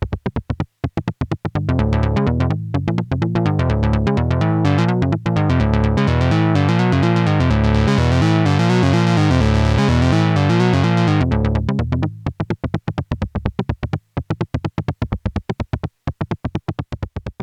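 Electronic synthesizer music: a fast, even run of short repeated notes that swells into a fuller passage with a strong bass line for most of the middle, then drops back to the short repeated notes near the end.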